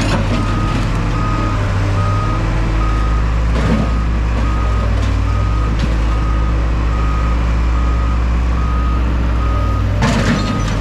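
A vehicle's back-up alarm beeping steadily, about two beeps a second, over a heavy engine running at a constant speed. There is a clunk about three and a half seconds in and another near the end.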